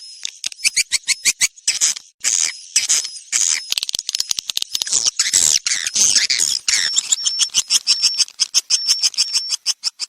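Swiftlet lure sound: a recording of swiftlet calls, rapid high-pitched chirps and twitters in quick overlapping series. From about seven seconds in they turn into a fast, even clicking over a steady high tone.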